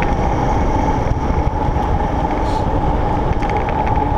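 Wind noise on the microphone and tyre hum from a Surly Krampus mountain bike rolling steadily along pavement, with a steady whine running through it.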